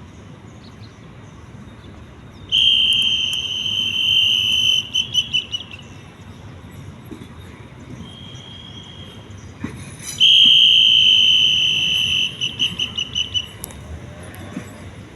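Railway staff's pea whistle blown twice, each a long blast breaking into a fluttering trill, with a fainter short whistle note between them: a station signal to the train crew.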